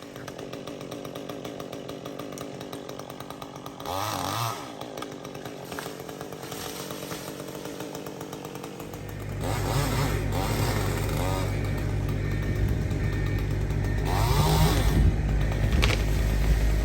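A chainsaw runs steadily and is revved up and back down several times, about four seconds in, again around ten seconds and near the end. A heavy low rumble joins about nine seconds in and makes the second half louder.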